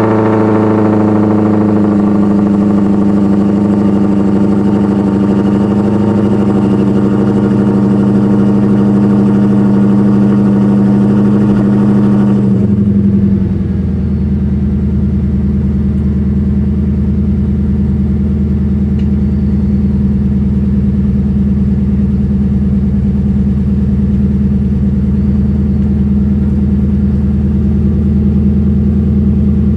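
Lexus IS F's 5.0-litre V8 running through a titanium exhaust at a raised cold-start fast idle, which steps down to a lower, steady idle about twelve seconds in as the cold-start idle settles.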